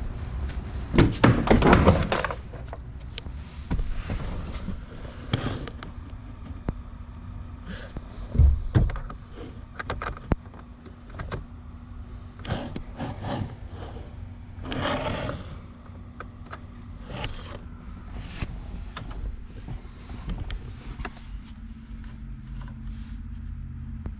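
Scattered knocks and clunks with a heavy thud about eight seconds in, and louder bursts of rustling noise near the start and again about fifteen seconds in.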